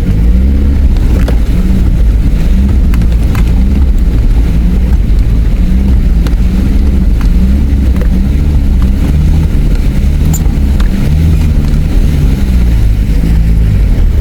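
Four-wheel drive's engine running under load over rough ground, its note rising and falling, over a heavy low rumble, with a few sharp knocks.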